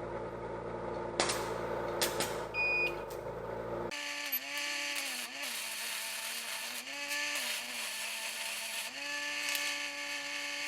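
Small 110-volt AC stick welder (buzz box) welding: a few scratches and clicks while the rod is struck, then about four seconds in the arc catches and runs as a steady buzz with crackle and hiss, its pitch dipping now and then as the arc length changes.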